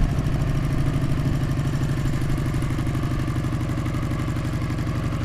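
Motorcycle engine running at a steady, low speed with an even, rapid pulsing and no revving.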